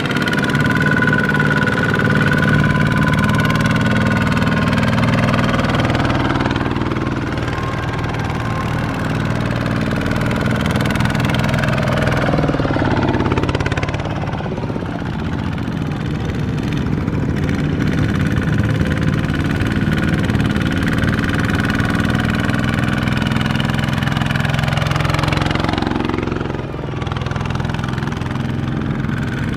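Small Kubota tractor's single-cylinder diesel engine running steadily and loudly, its pitch dipping and rising a few times.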